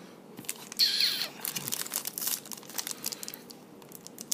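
Packaging of a trading card pack crinkling and tearing, with a sharp rip about a second in followed by a run of short crisp rustles.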